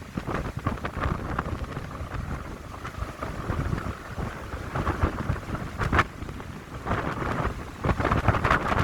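Wind gusting through a pine grove, rising and falling, with low rumbling from the wind buffeting the microphone.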